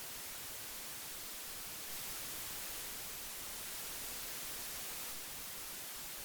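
Old analogue tape hiss: a steady, even hiss, brightest in the high treble, growing very slightly louder for a few seconds mid-way.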